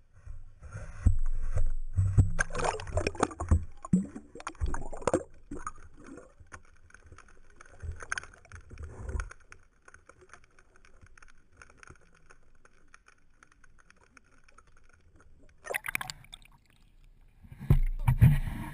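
Irregular splashing and knocking of water around a small boat, in uneven bursts with quieter stretches between.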